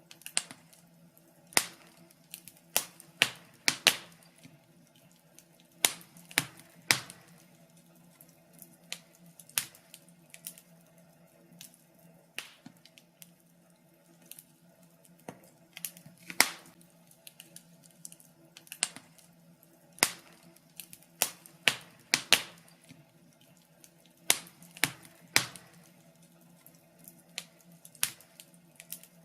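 Fireplace fire crackling: irregular sharp pops and snaps, sometimes in quick clusters and sometimes a second or more apart, over a faint steady hum.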